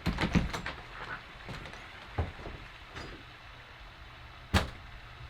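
Clicks and knocks of a door being unlocked and opened: a quick cluster of clicks at the start, a single knock about two seconds in, and a sharper, louder knock near the end.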